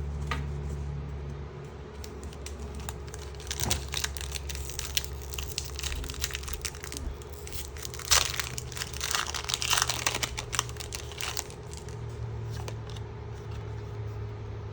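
Foil wrapper of a Pokémon booster pack crinkling and tearing as it is opened by hand, in a run of sharp crackles that is densest and loudest about eight to eleven seconds in.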